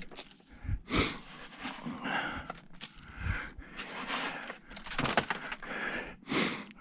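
Sand being scooped by hand and thrown across an icy driveway: irregular crunching and scattering noises with a few sharp clicks.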